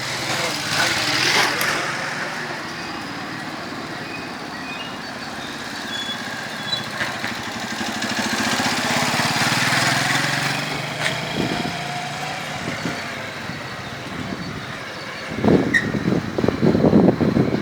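Motorcycles running, one engine note swelling louder and fading away about ten seconds in. Near the end, a choppier, louder sound takes over.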